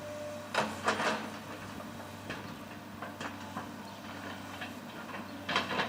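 Case excavator's diesel engine running steadily under a series of scattered knocks and clanks, the loudest about half a second to a second in and again near the end.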